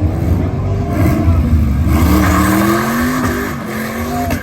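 Car engine accelerating hard, its pitch climbing, dropping back at a gear change about two seconds in, then climbing again.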